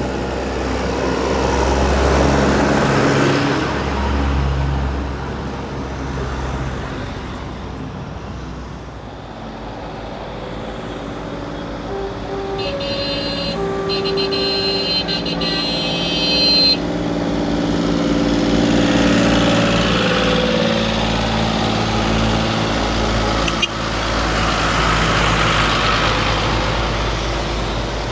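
Tractor engines passing one after another, each swelling and fading as it goes by. A horn sounds for about four seconds midway, cutting off sharply.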